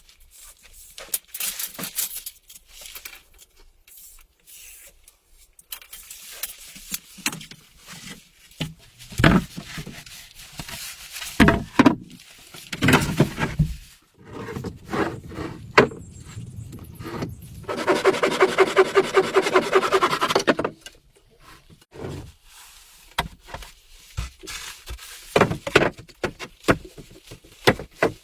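Hand work on wood: scattered knocks and scraping, with a few seconds of fast, even rasping strokes about two-thirds of the way in.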